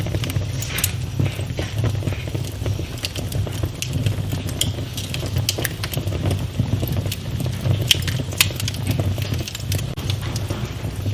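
Wood fire burning in a fireplace, crackling with irregular sharp pops over a steady low rumble; a couple of louder pops come about two-thirds of the way through.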